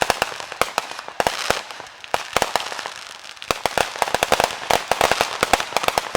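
Fireworks going off in rapid, irregular sharp cracks and pops, several a second, like strings of firecrackers, thickest in the last couple of seconds.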